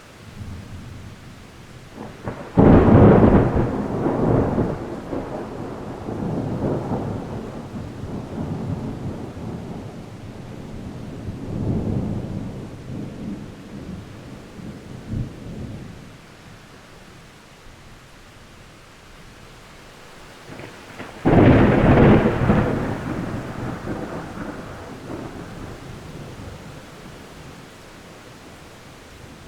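Thunder in a thunderstorm: a sudden close clap about three seconds in and another near twenty-one seconds in, each trailing off in a long rolling rumble, with lighter rumbles in between. A steady hiss of rain runs underneath.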